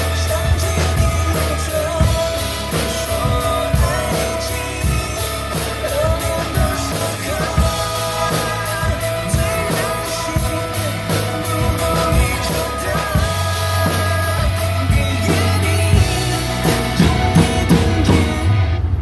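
Drum kit played along to a rock-style backing song with a singing voice and steady bass, the cymbals keeping an even beat. The cymbal strokes drop out briefly just before the end.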